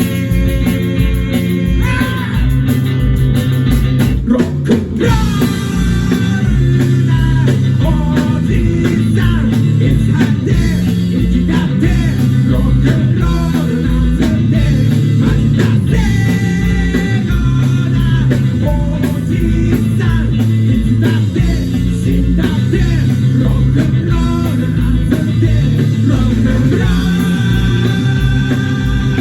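Live rock and roll band playing loudly: electric guitar lines with bending notes over bass and a steady drum beat.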